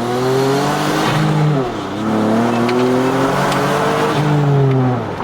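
Turbocharged Jeep Wrangler JK V6 engine revving up under hard acceleration. Its pitch climbs, drops about a second and a half in at an upshift, climbs again and drops at another shift near the end.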